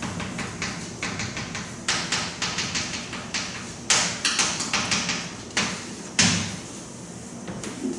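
A run of short, irregular scratches and taps, loudest about four seconds in and again about six seconds in.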